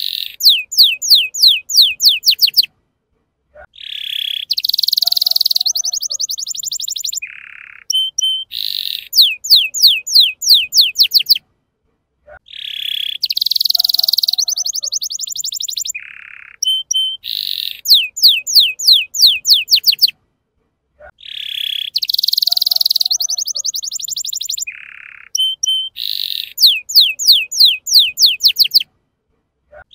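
Young male domestic canary singing the same song phrase over and over, about every four seconds, with short breaks between. Each phrase is a lower whistled note, then a buzzy note, then a fast trill of rising chirps at about six a second.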